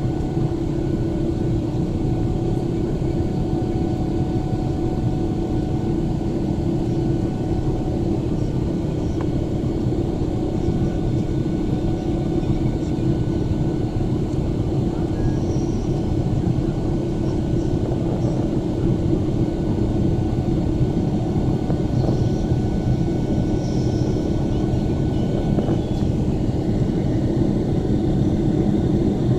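Airliner cabin noise in flight: the steady rush of jet engines and airflow, with a constant low hum under it.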